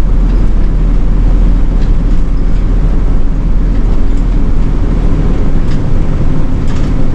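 Nishitetsu city bus under way: a steady low rumble of engine and road noise.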